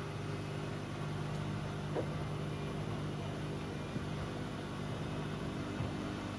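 Bauknecht WA Aquaton 1400 washing machine running, a steady motor hum with a faint click about two seconds in.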